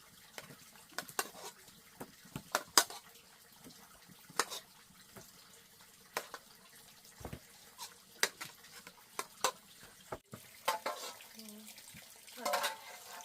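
Water splashing, with scattered sharp clinks and knocks about a second apart, like dishes or pots being washed in a basin.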